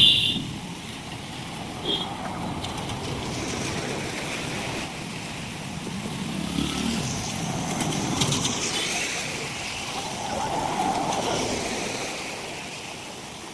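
Road traffic passing in heavy rain, a noisy wash of engines and wet road, with a brief horn toot at the very start.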